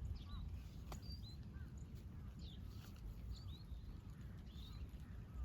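Small birds chirping, short curved calls repeated many times over a low rumble. A single sharp click about a second in.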